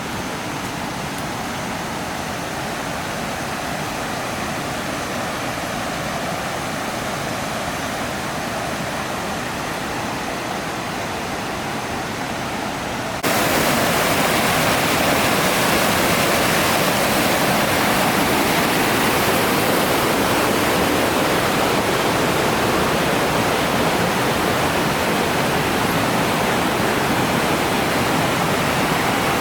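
Steady rush of water from a waterfall, an even hiss with no separate sounds. It jumps abruptly louder about thirteen seconds in.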